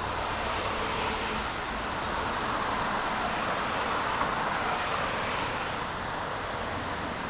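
Water of a small stream running steadily, an even rushing with no breaks.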